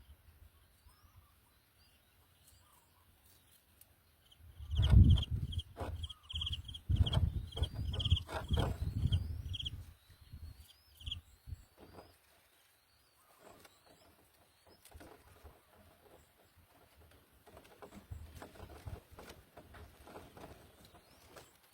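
Birds in an aviary: faint short chirps, then from about four seconds in a run of short high peeps, about three a second, for some six seconds. Heavy low thumps and rustling close to the microphone run under the peeps, then die down to scattered soft clicks.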